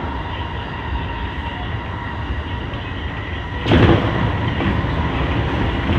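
Sotetsu electric commuter train running, heard from inside the car: a steady rumble with a faint steady whine. About four seconds in the noise suddenly jumps louder and stays that way.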